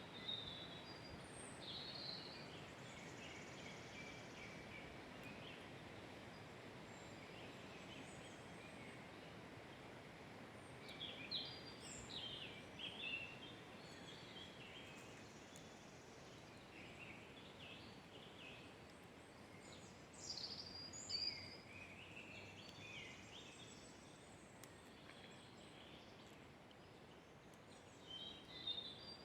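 Songbirds chirping and trilling in short high-pitched bursts, in several clusters, over a steady faint hiss of forest ambience.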